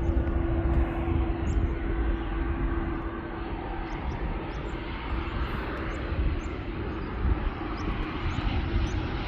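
Jet airliner engines on approach to land, a continuous rumble and hiss. A steady hum fades out a few seconds in, and the hiss grows louder near the end.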